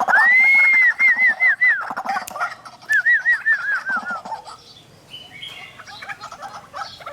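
White-breasted waterhen calling: one long arched note, then a quick run of short arched notes, and about three seconds in another run that falls slightly in pitch, with other bird calls underneath.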